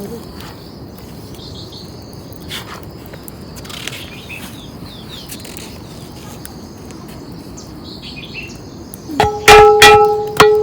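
Outdoor ambience with a steady hiss and faint bird chirps, with a thin steady high tone. About nine seconds in, loud music cuts in: a held droning tone with sharp plucked or struck notes over it.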